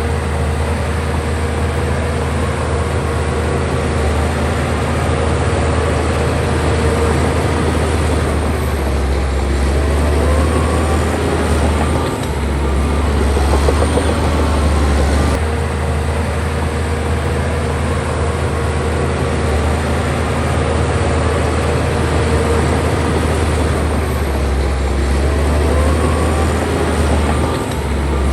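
Heavy diesel earthmoving machinery running steadily: a deep engine drone with faint squeaks that rise in pitch now and then.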